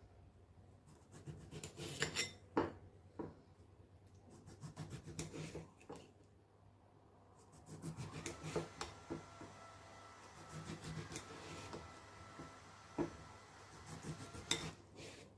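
Quiet handling sounds: rubbing and scraping on a hard surface, broken by scattered sharp clicks and light knocks, two of them louder, a few seconds in and near the end.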